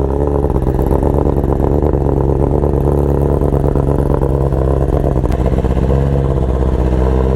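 BMW S1000RR's inline-four engine idling steadily through an Akrapovic Evolution exhaust.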